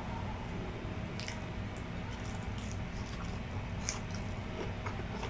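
Close-up wet chewing and mouth smacks, a few soft clicks here and there, of someone eating butchi, a chewy fried glutinous-rice ball.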